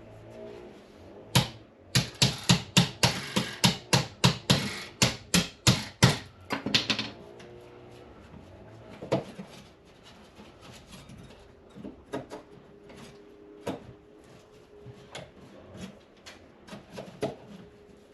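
A quick run of sharp knocks, about four a second for some five seconds, from hand-tool work on the opened wall around the dryer vent duct. After that come a few scattered, quieter clicks.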